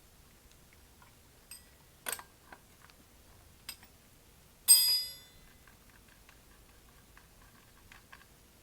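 Metal parts and hand tools being handled on a workbench: a few light clicks and knocks, then one sharp metallic clink that rings briefly just under five seconds in.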